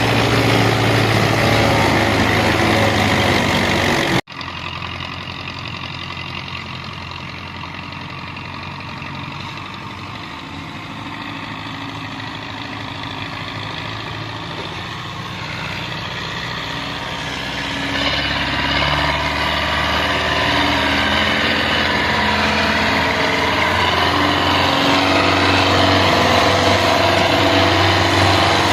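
Farm tractor diesel engine running steadily. It breaks off for an instant about four seconds in and returns quieter, then grows louder and heavier about eighteen seconds in.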